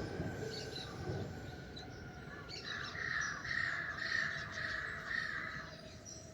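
Birds outdoors at dawn. From about two and a half seconds in, one bird gives a run of about five harsh calls in quick succession, over faint higher chirps. A low rumble fades out in the first couple of seconds.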